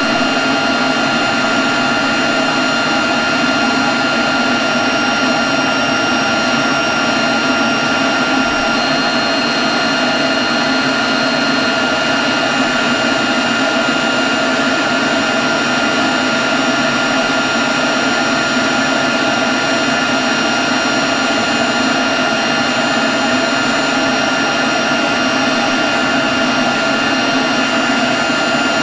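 Leaf blower running steadily at constant speed: a rush of blown air with a steady high whine over it.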